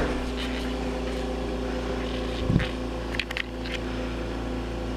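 Steady mechanical hum of a running machine or appliance, with a brief low thump about two and a half seconds in and a few faint clicks after it.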